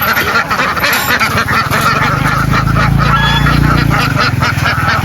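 A large flock of ducks quacking without pause, many calls overlapping. A low, steady hum joins about two seconds in.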